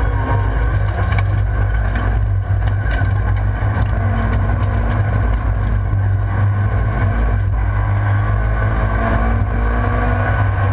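Rallycross car's engine running hard at high revs under racing load, heard from inside the stripped-out cabin. It is loud and continuous.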